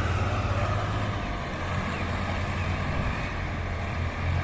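Heavy diesel engine of a combine harvester running steadily under heavy load as the machine works its way out of deep mud.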